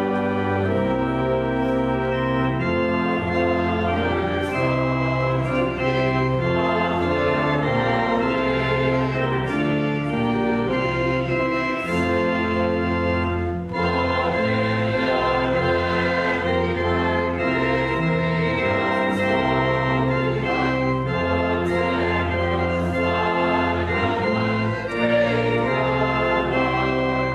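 Church organ playing held chords over a moving bass line, the bass notes changing about once a second.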